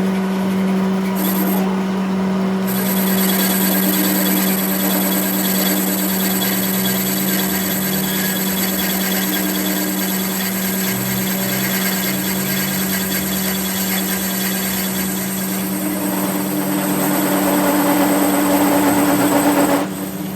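A power tool or machine tool running steadily on metal, with a constant hum under a rough cutting noise; it stops abruptly near the end.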